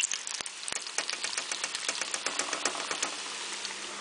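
Haddock frying in a pan of hot oil: a steady sizzle full of rapid, irregular crackles and pops.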